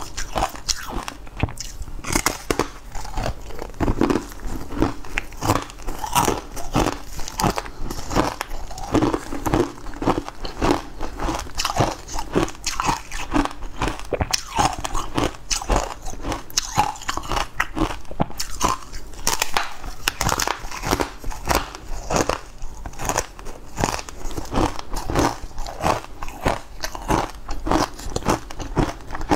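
Close-miked biting and chewing of a crumbly, green powder-coated food, with many irregular crunches and crackles throughout.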